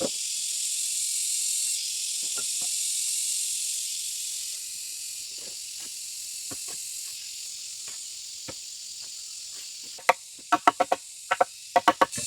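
Steady high-pitched insect buzz, with scattered light knocks and then a quick run of about ten sharp knocks near the end.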